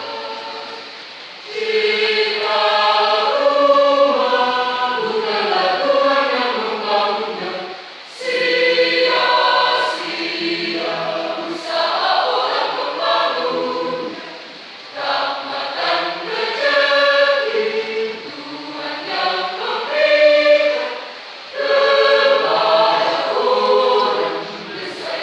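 Choir singing in several phrases, with brief pauses between them.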